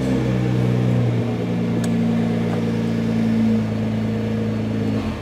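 Nissan GT-R's twin-turbo V6 idling just after being restarted once the alarm's immobiliser has released; the idle pitch drops a step about a second in, and the engine stops near the end.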